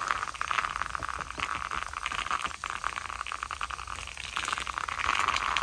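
Wood fire crackling and popping: a continuous run of sharp crackles over a steady hiss.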